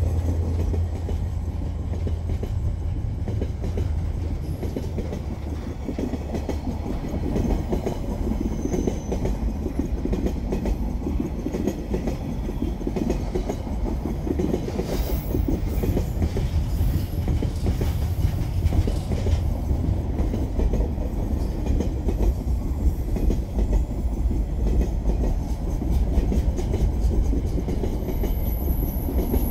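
Freight train wagons rolling past close by: a steady rumble of steel wheels on rail with clickety-clack over the joints. A high wheel squeal sets in near the end.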